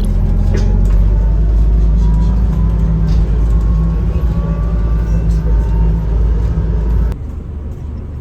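Loud, steady low rumble that drops abruptly to a quieter rumble about seven seconds in.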